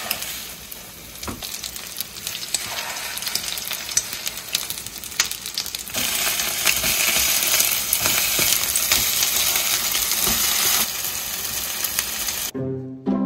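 Egg-and-mushroom pancake batter sizzling in oil in a hot frying pan, with short scrapes and taps from a spoon and spatula. The sizzle grows louder about six seconds in. Near the end it cuts off abruptly to music with plucked strings.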